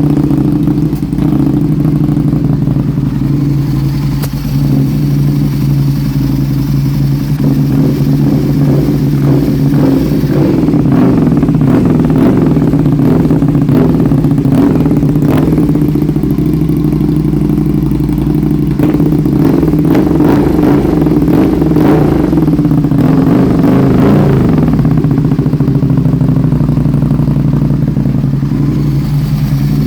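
Aprilia RSV1000R's V-twin engine running steadily at low revs, with some short clattery ticks through the middle; the owner suspects a misfire.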